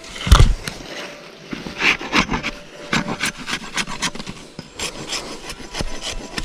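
Irregular rubbing and scraping strokes mixed with sharp knocks, with a heavy thump about a third of a second in.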